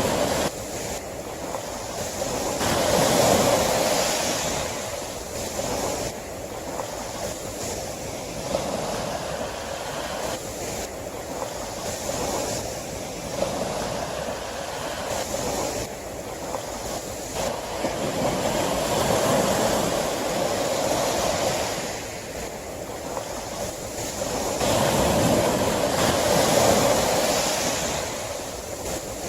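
Sea waves breaking and washing on a shore, surging and ebbing every few seconds, with louder swells near the start, in the middle and near the end.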